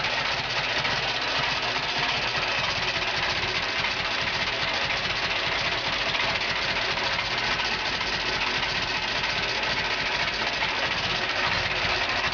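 UD-4 engine running steadily.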